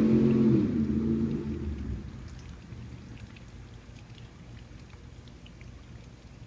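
2005 Jeep Grand Cherokee's 4.7-litre V8 through a Flowmaster Super 44 side exhaust, its note dropping in pitch and fading about a second in as the revs fall away. It then settles to a faint low rumble with light scattered ticks.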